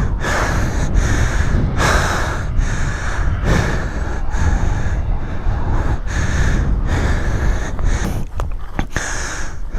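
A man breathing heavily and panting close to the microphone, about one breath a second, out of breath from running.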